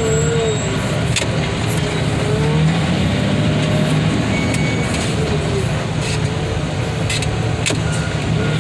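A large engine running steadily at a constant speed, with a faint wavering whine above it and a few sharp clicks.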